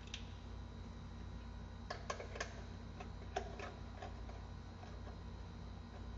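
Light clicks and taps of hand tools and metal parts while covers are being unbolted from a car engine that is not running. A small cluster of clicks comes about two seconds in and another about three and a half seconds in, over a steady low hum.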